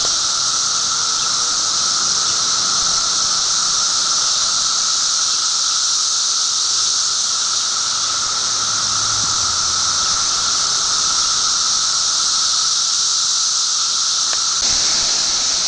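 Dense chorus of periodical cicadas, a loud, steady, shrill drone with a lower humming tone beneath it.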